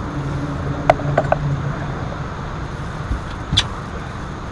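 Steady low hum of a boat motor running, with a few sharp knocks and clicks about a second in and one more near the end.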